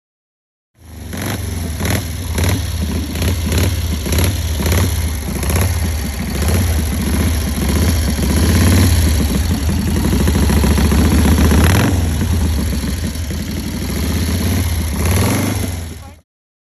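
A large vehicle engine running with a deep, steady rumble, blipped sharply several times in the first few seconds, then held. It starts about a second in and cuts off suddenly near the end.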